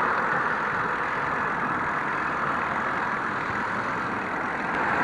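Steady rush of road traffic noise heard from a bicycle: an even hiss with no distinct engine note.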